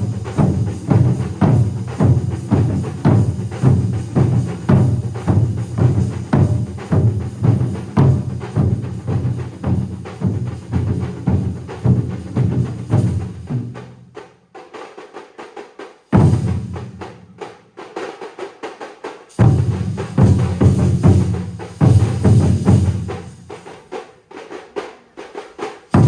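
A large drum ensemble playing fast, dense beats together. About fourteen seconds in the drumming drops away to lighter strokes, then comes back loud twice in short bursts before fading near the end.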